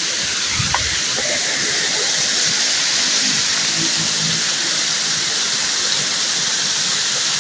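Waterfall: a steady, even rush of falling water, with a brief low thump under a second in.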